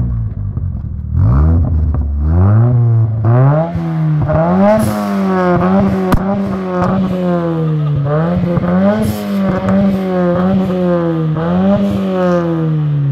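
Nissan 200SX turbocharged four-cylinder engine revved over and over, about ten quick revs that each rise and fall back, with sharp pops between them; really loud.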